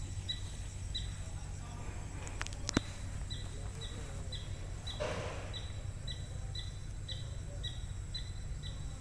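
A bird's short high chirp repeated steadily about twice a second, with one sharp click about three seconds in and a brief rustling burst near the middle.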